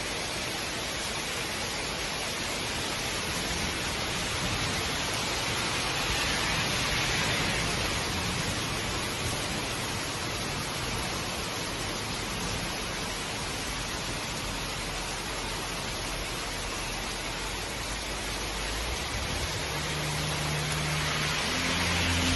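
Heavy rain falling on trees, grass and pavement: a steady hiss that swells a little twice. A low steady hum joins near the end.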